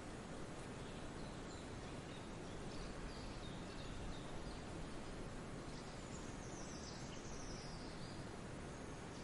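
Forest ambience: a steady rushing background noise with faint songbird chirps over it, including a short run of falling chirps about six to seven seconds in.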